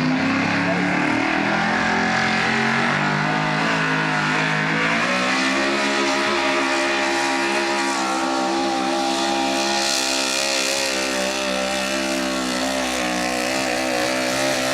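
A 4x4 truck's engine revving hard: the pitch climbs in the first second, climbs again about five seconds in, and is then held at high revs under steady load.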